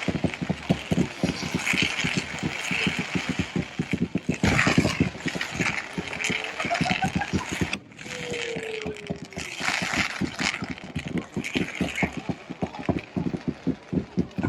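Fireworks crackling in rapid, dense pops, with a crowd's voices underneath and a couple of short pitched whistles midway, one rising and one falling.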